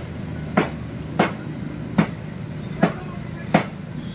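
A steady run of sharp knocking strikes, about one every two-thirds of a second, six in all, over low background noise.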